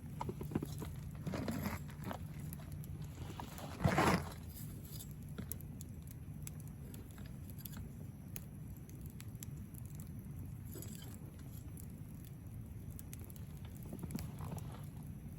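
Wood fire burning in a LOGOS Pyramid TAKIBI fire pit, crackling with scattered sharp pops over a steady low rumble, and one brief louder burst about four seconds in.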